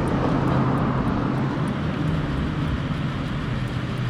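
Motorcycle engine idling steadily under the noise of passing road traffic.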